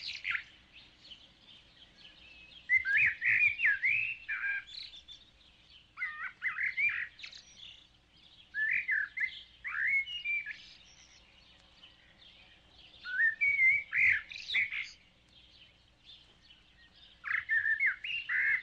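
Birdsong: short bursts of quick, twittering chirps and trills, repeating every few seconds.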